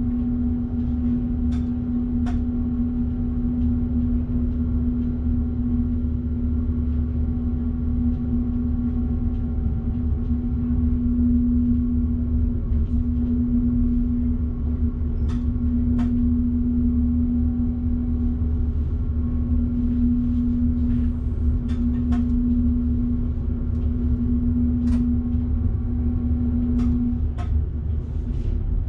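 Electric train running, heard from the driver's cab: a steady low rumble with a constant electrical hum, and scattered sharp clicks from the wheels on the track.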